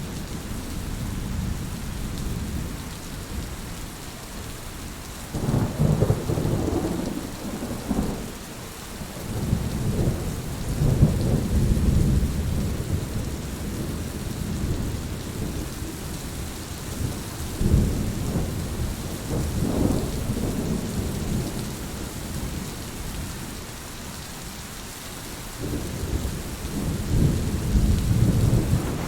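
Heavy rain falling steadily through a thunderstorm, with four long, low rumbles of rolling thunder that each swell and fade over a few seconds.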